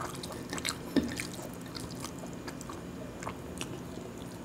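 Close-miked eating: soft, wet chewing and lip smacks while fingers mix khichuri on a glass plate, with scattered small clicks and one short knock about a second in.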